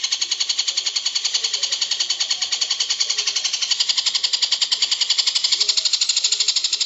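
Recorded songbird call: a fast, unbroken run of high, evenly repeated chirps, several a second, keeping the same rhythm throughout.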